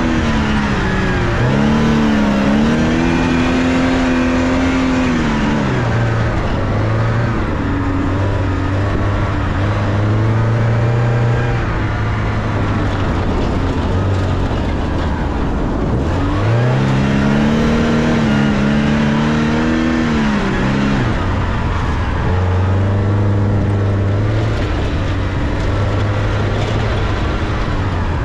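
Porsche 944's four-cylinder engine heard from inside the cabin under hard driving, its pitch climbing and falling again and again through gear changes, with stretches of steadier running in between. The rush of tyres on dirt runs underneath.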